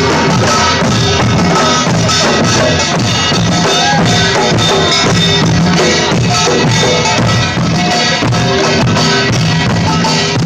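Live band music with a drum kit keeping a steady beat, loud and continuous.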